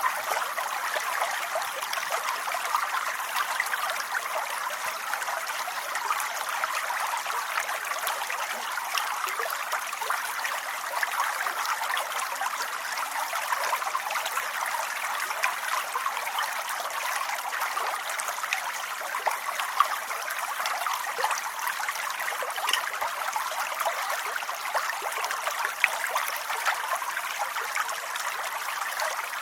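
Steady rainfall: an even hiss of countless small drops, with a few louder single drops standing out now and then.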